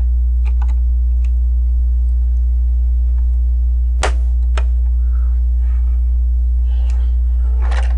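Steady low electrical hum, with a few sharp clicks of plastic LEGO pieces being handled and pressed onto the model, the loudest about four seconds in.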